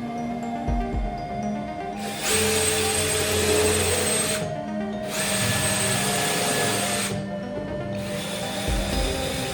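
A power tool runs in three bursts of about two seconds each, the first starting about two seconds in, with a steady high whine over the cutting noise. Background music plays underneath.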